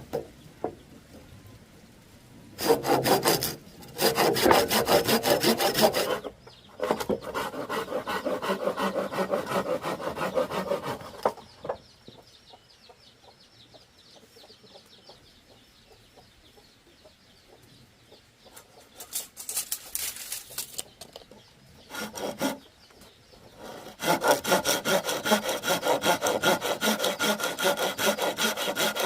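Hand saw cutting through bamboo in several spells of rapid rasping strokes, broken by short pauses and a longer quiet stretch in the middle, then sawing steadily again for the last few seconds.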